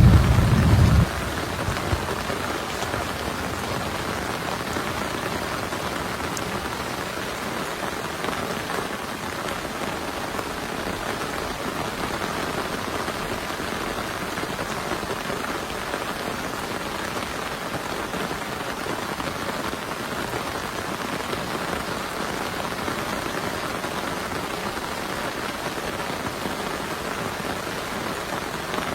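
Rain falling steadily in a thunderstorm, an even hiss with no let-up. A loud low rumble of thunder is dying away at the start and cuts off about a second in.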